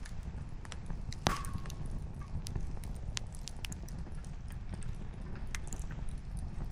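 Wood campfire crackling, with irregular small pops over a steady low rumble. One sharper pop about a second in is followed by a short high whistle.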